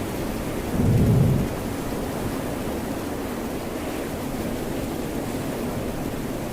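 Steady rain and ocean-wave hiss, with a short low rumble about a second in.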